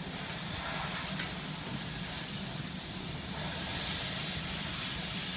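Construction machinery running steadily: a constant low rumble under a loud hiss, the hiss swelling a little several times toward the end.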